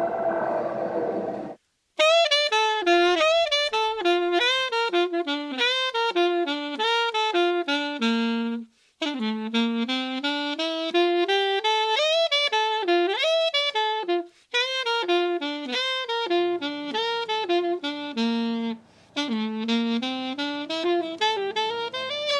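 Solo saxophone playing quick runs of notes, one note at a time, in phrases broken by three short pauses. It starts about two seconds in, after a brief different sound and a moment of silence.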